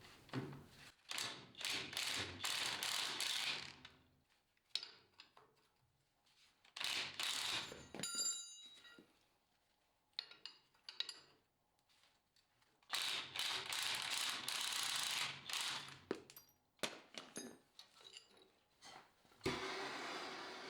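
A socket wrench on a swivel socket working the transmission mounting bolts. It comes in three bursts of clicking, a few seconds each, with short taps and knocks between them.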